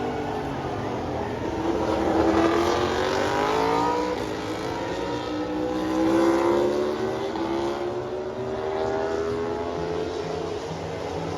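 Racing motorcycles passing at speed on the track, engine notes sliding in pitch as they go by, loudest about two and six seconds in.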